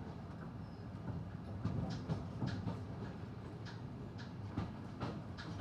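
A passenger train running along the track, heard from inside the carriage: a steady low rumble with irregular clicks and rattles.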